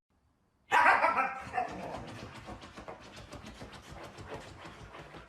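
A small dog, a Pomeranian, gives a pitched bark about a second in that fades away, followed by faint rapid ticking and rustling.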